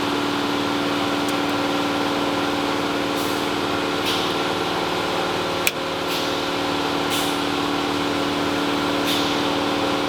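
Bryant gas furnace starting up after its door switch is pushed in: a steady motor hum, with a sharp click about halfway through and short hissing bursts every second or two.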